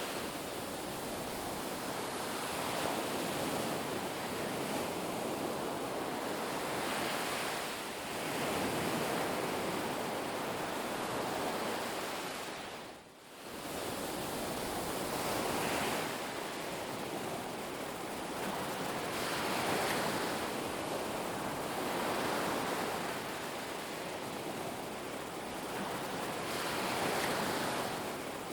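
Ocean waves breaking and washing up a beach, a steady rushing noise that swells and falls every few seconds. About halfway through the sound briefly drops away almost to nothing, then returns.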